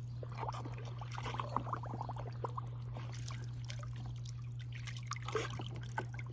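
Water splashing and dribbling in a small dog wading pool as a dog plays in it: irregular small splashes, with a couple of louder ones.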